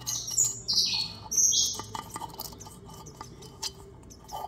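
Small birds chirping: a quick run of short, high chirps in the first two seconds, then fainter chirps, with a few faint clicks.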